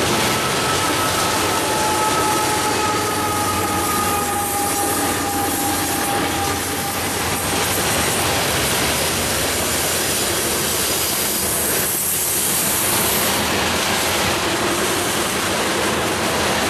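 Coal train cars rolling past on the rails: a steady rumble and clatter of steel wheels over the track. A thin two-note wheel squeal sounds over it for the first several seconds, then fades.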